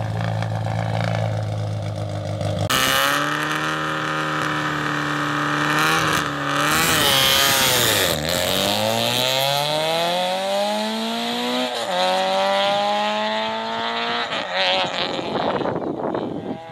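Rally car engine idling, then revved hard and held high on the start line. It launches away about eight seconds in and accelerates up through the gears with two upshifts, fading as it goes.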